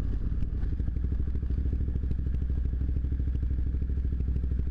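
Motorcycle engine idling steadily, a fast even low pulsing.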